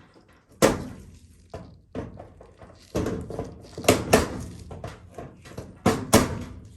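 Sharp knocks and clicks, about seven of them, some in quick pairs, as the metal insert of a GE dryer's timer knob is worked off the timer shaft.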